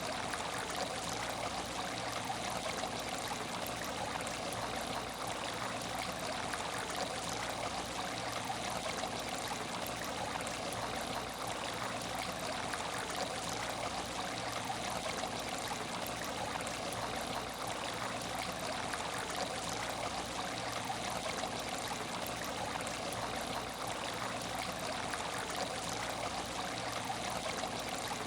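Water in an aquarium tank trickling and splashing steadily.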